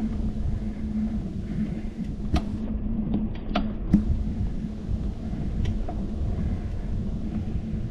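Bicycle riding over pavement, heard through a handlebar-mounted camera as a steady low rumble with a constant hum. A few sharp knocks and rattles come between about two and four seconds in.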